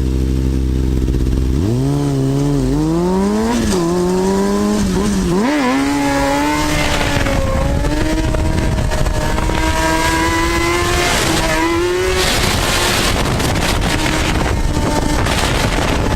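Motorcycle engine idling, then revving up about two seconds in and pulling away. Its note climbs and drops with each gear change, then rises steadily, with a rush of wind and road noise near the end.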